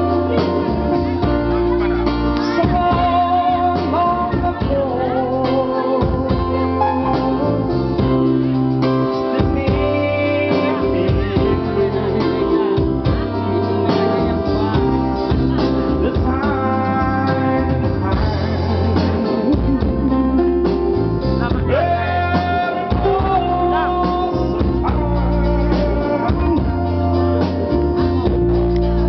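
Live band music, a Western pop song with guitar, with a man singing over it.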